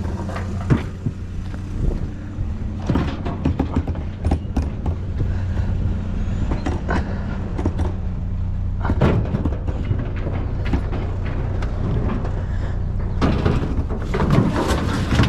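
Vehicle engine idling steadily, with repeated knocks and clatter of items being handled and set down.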